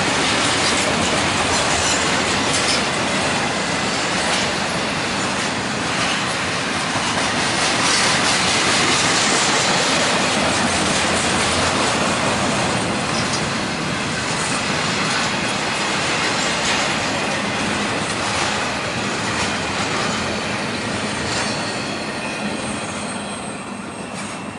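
Freight cars of a mixed auto-rack and double-stack container train rolling past: loud steady wheel-on-rail noise with faint high wheel squeal, fading away near the end.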